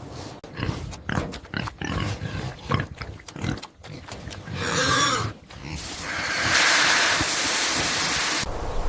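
Pig grunting in a quick run of short grunts, then letting out a short squeal about five seconds in and a longer, louder squeal from about six seconds in.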